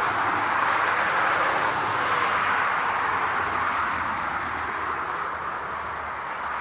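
Jet airliner engines, a steady rushing noise that slowly fades over the last few seconds.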